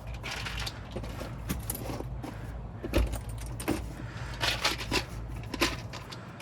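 Metal hand tools and tool-bag contents clinking and knocking as they are packed back into the bag, a string of irregular clicks and rattles with a heavier knock about halfway through. A low steady hum runs underneath.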